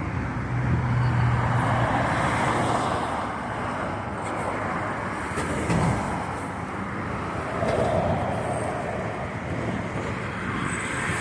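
Road traffic: vehicles passing on a city street, a steady rush of engines and tyres that swells twice as cars go by.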